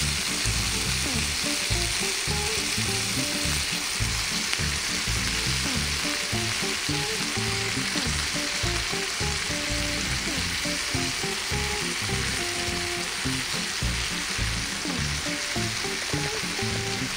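Chicken pieces sizzling steadily as they sear in a waterless cooking pan over a gas burner. Partway through, sliced shimeji and king oyster mushrooms are laid in on top.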